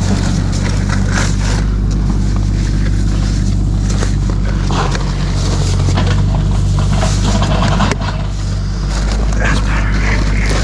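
Heavy equipment engine running steadily, with scattered short scrapes and knocks over it.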